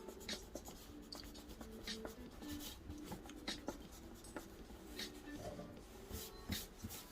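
Handwriting on paper: a steady run of short, quick scratchy strokes as someone writes.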